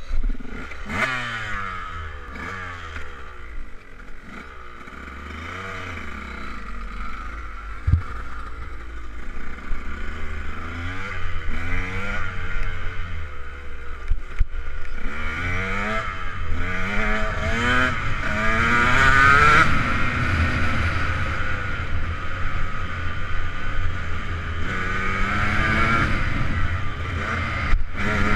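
2008 KTM 125 SX's single-cylinder two-stroke engine revving hard while ridden, its pitch climbing and dropping again and again with throttle and gear changes.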